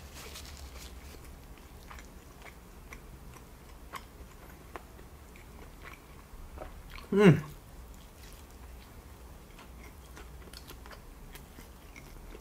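A person chewing a mouthful of chicken sandwich smothered in chili and cheese sauce: soft, wet mouth clicks and smacks throughout. About seven seconds in, a short loud vocal sound gliding down in pitch, like an appreciative "mm".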